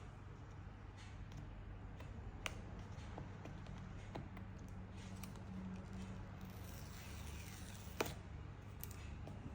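Hands handling a smartphone box and its packaging: scattered small clicks and taps, with a sharper click about eight seconds in, over a steady low hum.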